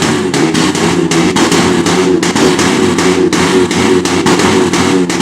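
Dense crackling of firecrackers, sharp pops several times a second, over vehicle engines running and revving.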